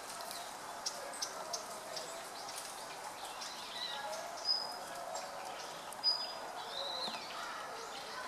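Red-billed leiothrix calling: a run of short, sharp chip notes, then a few brief high whistled notes with curving glides.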